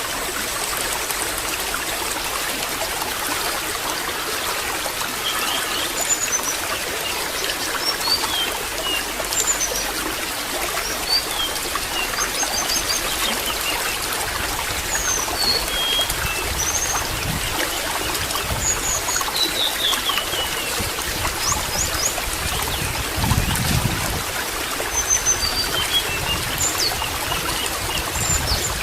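Water trickling and splashing steadily, with small birds chirping here and there in short high notes. A couple of brief low rumbles come through, the louder one about two-thirds of the way in.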